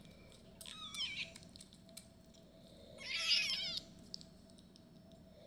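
Very young bottle-fed kitten mewing twice, high-pitched wavering cries, the second louder.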